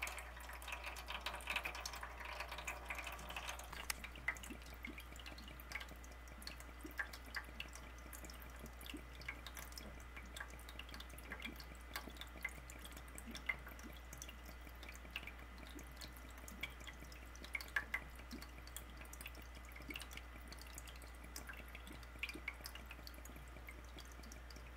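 Water trickling out of the opened drain filter of a clogged Kenmore HE-3 front-loading washer into a drain pan, easing off in the first few seconds to irregular drips.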